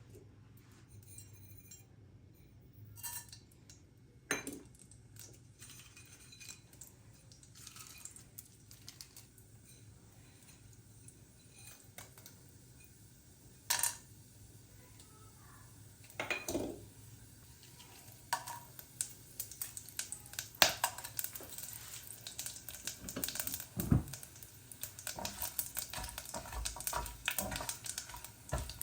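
Dishes and metal utensils clinking and knocking during hand cooking work: a few separate knocks at first, growing into busy, rapid clinking over the last third.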